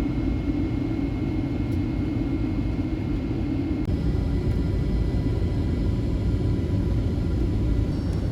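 Steady low rumble of cabin noise inside a Boeing 757-200 airliner, with faint steady tones over it and a brief break about four seconds in.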